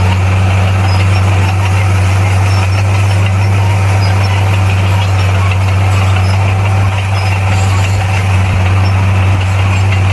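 Heavy diesel engine of a bulldozer running steadily at a constant low pitch, with a slight dip in level about seven seconds in.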